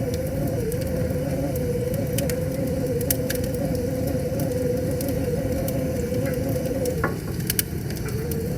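Wood fire crackling, with scattered sharp pops, the strongest about 3 seconds in and twice near the end. Underneath runs a steady low rush and a wavering hum.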